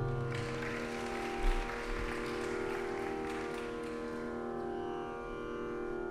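Veena strings ringing on after closing strokes in raga Khamas, the held chord slowly dying away.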